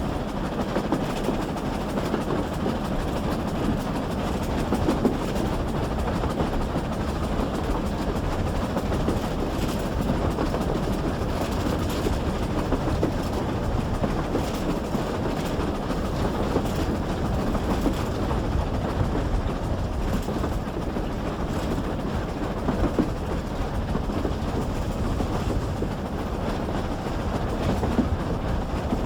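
Steam train hauled by GWR Pannier Tank no. 6412, heard on board while running at steady speed: a continuous running noise with occasional wheel clicks over the rail joints.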